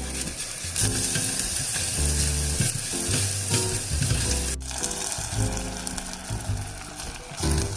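Food sizzling as it fries in a pan, a steady crackling hiss that breaks off sharply about halfway through and resumes. Soft background music plays underneath.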